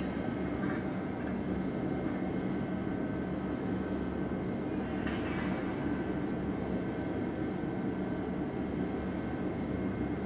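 Fire engine's diesel engine running with a steady low rumble and a constant hum, with a short hiss about five seconds in.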